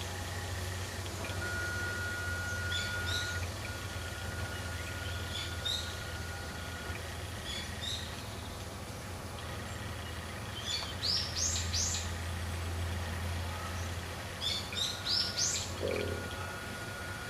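Songbirds chirping in woodland: several groups of quick, rising chirps, louder in two bursts in the second half, over a steady low rumble and a faint steady tone.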